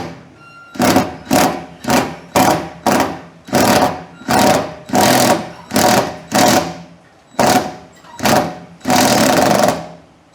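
A power driver tightening a bolt in short trigger pulses, about two a second, with one longer run near the end as the bolt draws down snug.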